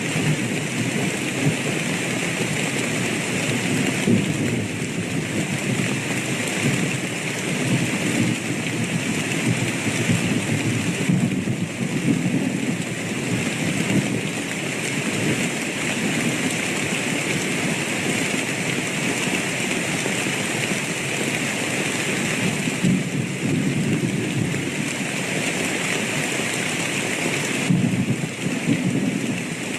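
Steady rain falling, with low thunder rumbling beneath it that swells and fades every few seconds and has no sharp cracks.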